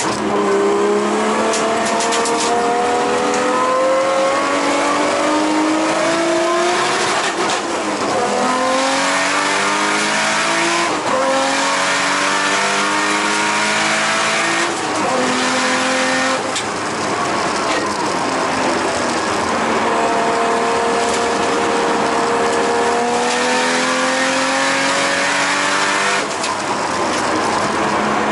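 Nissan Skyline R32 GTS-t engine under hard acceleration on track, heard from inside the cabin. Its note climbs through each gear and then drops sharply at gear changes and lifts for corners, about five times.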